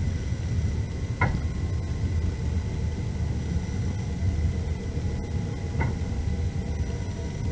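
Passenger train running on the rails, a steady low rumble heard from inside the carriage, with two short knocks about four and a half seconds apart.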